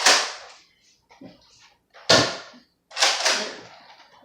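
Nerf blasters firing and foam darts striking, heard as four sharp thuds or clacks: one at the start, one about two seconds in, one about three seconds in and one at the very end.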